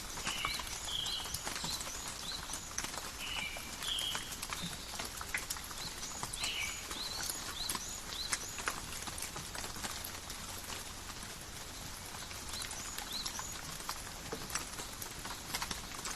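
Steady, calm rain falling in a forest: an even hiss with many individual drops and drips ticking. A few short, high chirps sound now and then, mostly in the first half.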